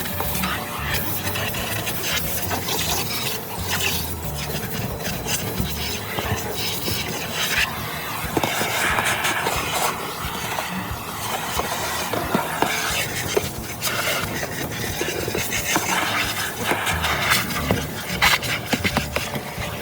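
Irregular rubbing and scraping noise, made of many short scratchy strokes that go on without a break.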